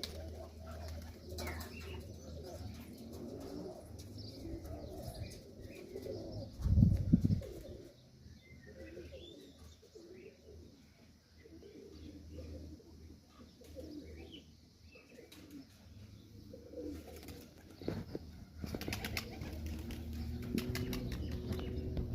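Domestic pigeons cooing repeatedly, with wing flapping. A loud low thump comes about seven seconds in.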